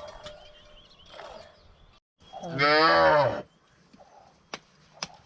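One loud, drawn-out moo from a cow, about a second long, near the middle. A few sharp clicks follow it.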